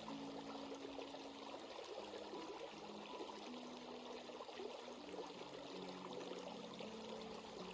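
Stream water babbling over rocks and pebbles in a steady rush.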